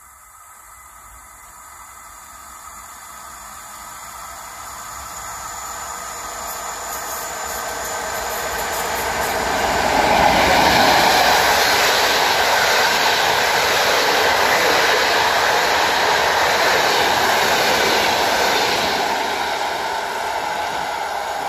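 Train approaching and passing: the noise of its wheels on the rails builds over about ten seconds, stays loud for about eight more, then starts to fade near the end.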